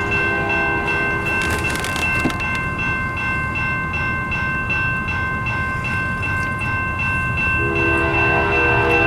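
Canadian National freight locomotive's horn sounding over a passing train, cutting off about two seconds in and blowing again near the end. Steady high ringing, struck about twice a second, sounds throughout, like a grade-crossing bell.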